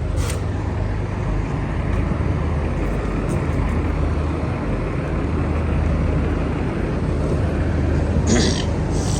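Semi-truck diesel engine running steadily with a low drone. A couple of short hisses come near the end.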